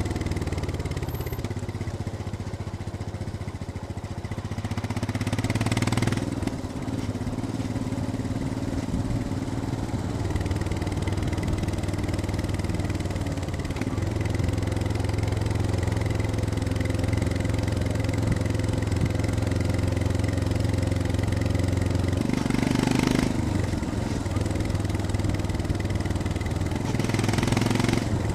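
Royal Enfield Scram 411's single-cylinder engine running on a downhill ride, its note easing off and picking up again. The note changes abruptly about six seconds in and again a little past twenty-two seconds.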